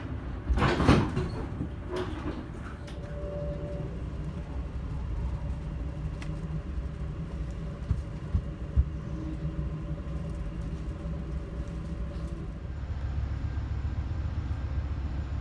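Amtrak passenger train heard from inside the coach: a steady low rumble of wheels on track. A loud rushing burst comes about a second in, and a couple of sharp clicks come later. Near the end the sound changes to a steadier low hum.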